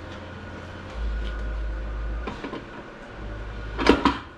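Metal transmission parts knocking together as a part is fitted into the Ford AOD transmission case. A low rumble comes about a second in, then a few light clicks, and a loud metallic clatter near the end.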